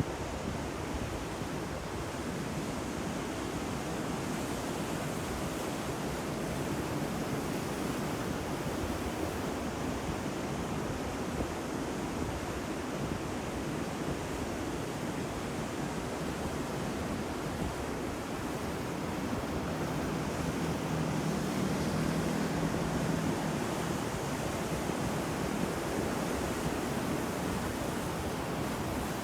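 Ocean surf: waves breaking and washing in a steady rush, swelling a little louder about two-thirds of the way through.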